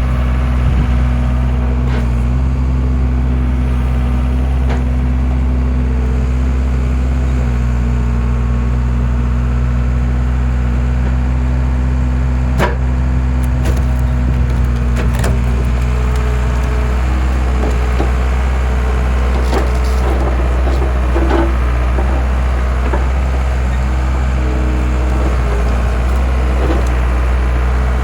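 Skid steer's engine running steadily while wood cracks and splinters as logs are split on a skid-steer-mounted log splitter, with several sharp cracks through the middle and later part.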